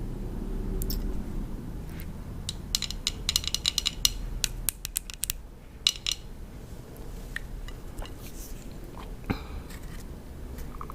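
Close-miked crunching of raw cucumber: rapid crisp crackles in a burst a few seconds in, another around the middle, and scattered smaller crunches after.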